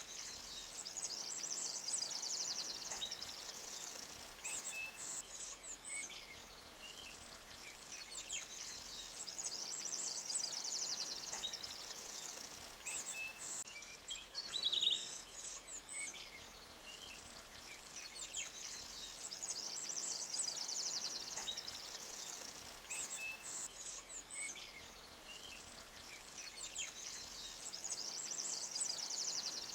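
Forest ambience: birds chirping and trilling in high, fast phrases that recur about every nine seconds, with one louder chirp midway, over the faint steady hiss of a flowing creek.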